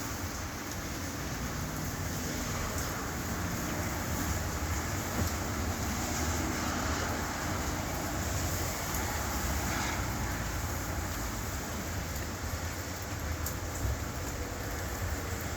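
Rain and traffic on a wet road: a steady hiss with a low rumble underneath.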